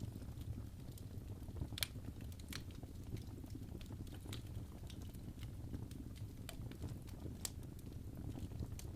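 Wood fire crackling in a fireplace: irregular sharp pops and snaps over a low steady rumble of the flames, the loudest pop about two seconds in.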